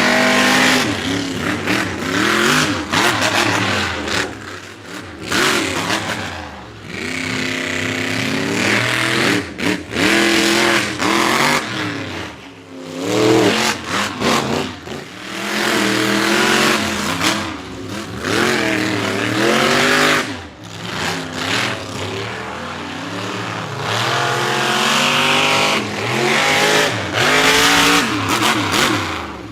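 Monster truck engine revving hard, its pitch climbing and falling again and again, with brief drops in between.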